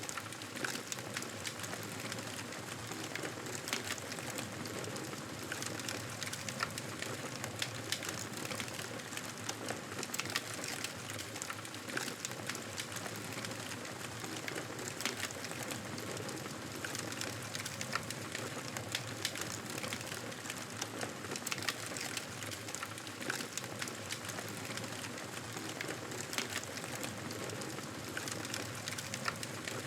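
Wood fire crackling steadily, a constant hiss scattered with many small pops and snaps.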